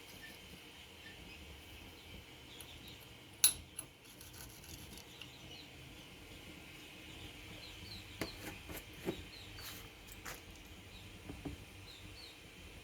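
Sharp clicks and clinks of small hard parts or tools being handled: one loud clink about three and a half seconds in, then a run of lighter clicks later on, over a faint steady hiss with faint bird chirps.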